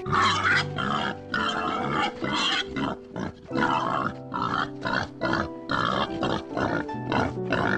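Domestic pigs grunting in a quick series of short calls, about one and a half a second, over background music with steady held notes.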